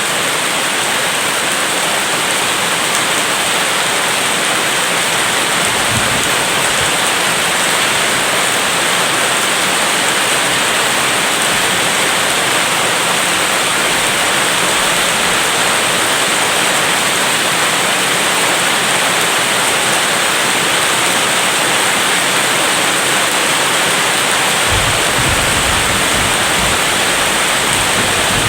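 Rain falling steadily in a dense, even hiss. Near the end a low rumble of distant thunder rises underneath it.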